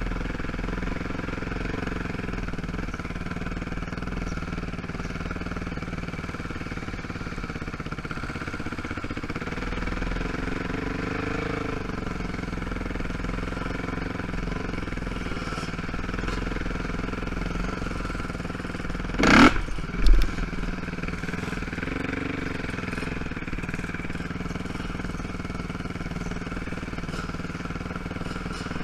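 ATV (quad) engine running steadily at low speed while riding a dirt trail. About two-thirds of the way in come two loud, brief bursts close together.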